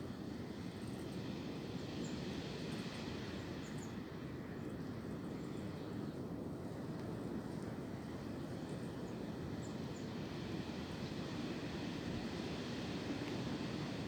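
Wind blowing steadily through tree branches: a continuous, even rush with most of its weight low, with a few faint high chirps.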